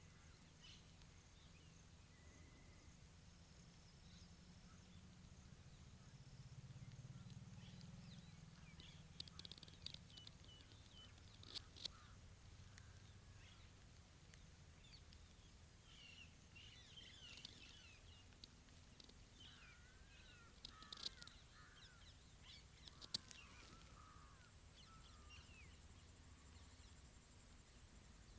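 Faint rural outdoor ambience: scattered bird calls, mostly in the middle, over a steady high-pitched whine. There are a few sharp clicks, the loudest near the middle and about two-thirds in.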